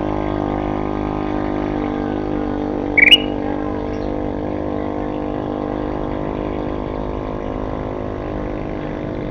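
A single short, loud, rising bulbul chirp about three seconds in, over a steady low hum.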